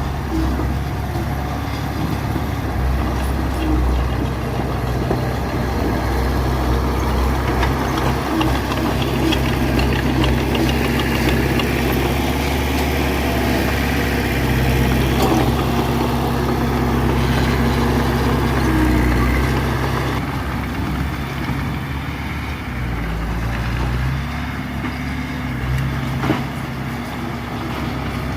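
Diesel engines of earthmoving machinery (a small bulldozer and dump truck) running steadily, a little louder through the middle, with one sharp knock near the end.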